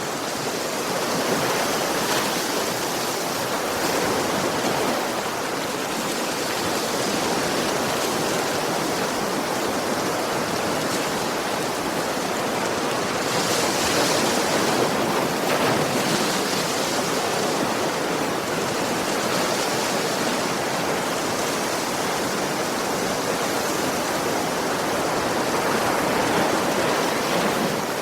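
Ocean waves washing onto a beach: a steady rush of surf that swells louder every few seconds, most strongly about halfway through and again near the end.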